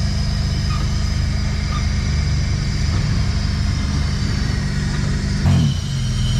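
Off-road 4x4's engine running under load on the obstacle. About five and a half seconds in, the engine note drops sharply and then picks up again.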